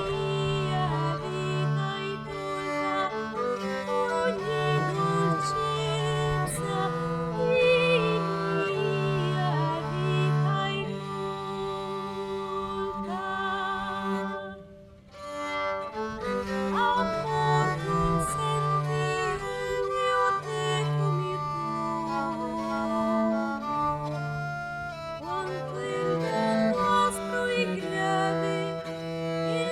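Bowed string instruments playing a slow early Italian Renaissance piece, with a sustained low bass line under melodic lines with vibrato. The music thins to a brief pause about halfway through, then resumes.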